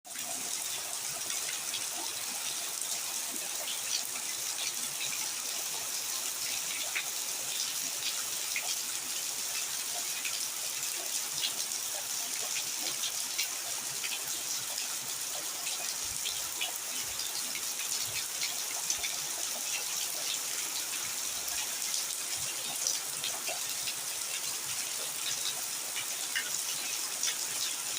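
Steady rain falling: an even hiss dotted with many small sharp ticks of individual drops striking.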